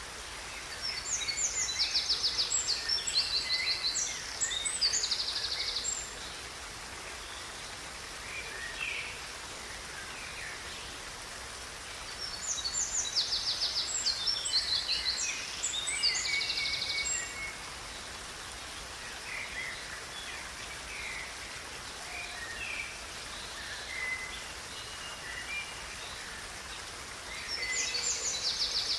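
Songbird singing over the steady rush of a river. It sings bursts of rapid trills and chirps about a second in and again about twelve seconds in, and starts a third near the end.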